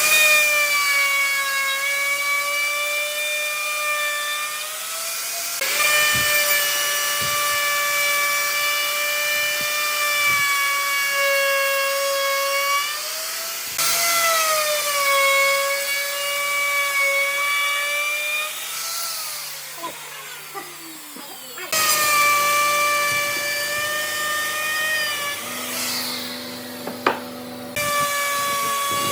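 A handheld power tool's electric motor working wood with a steady high-pitched whine, its pitch sagging a little under load. The whine breaks off and restarts several times, and once winds down in a falling glide.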